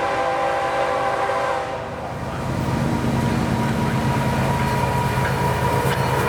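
A freight locomotive's air horn sounds a chord of several notes and cuts off about two seconds in. Then comes a steady rumble of the diesel locomotive and train rolling by.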